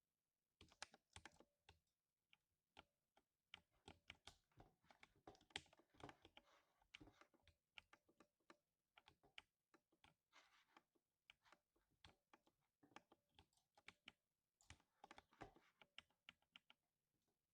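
Faint typing on a 60% mechanical keyboard with lubed silver linear switches: rapid, irregular keystroke clicks in runs, with short pauses, stopping just before the end.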